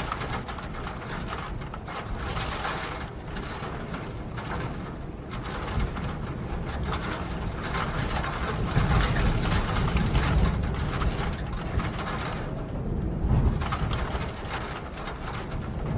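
Dense mechanical clicking and grinding over a low rumble, the rumble swelling in the middle.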